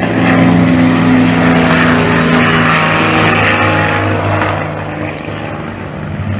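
Propeller aircraft engine running loud and close, a steady drone with a rushing hiss above it. It eases off about four and a half seconds in.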